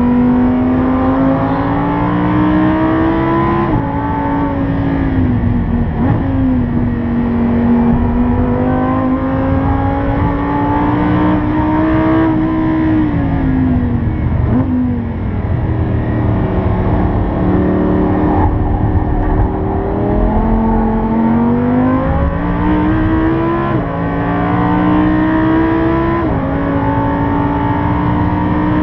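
Lamborghini Huracán's 5.2-litre V10 heard from inside the cabin under hard acceleration on track. Its pitch climbs and drops sharply at each upshift of the dual-clutch gearbox, falls smoothly as the car slows for a corner about halfway through, then climbs again, with two quick upshifts in the last few seconds.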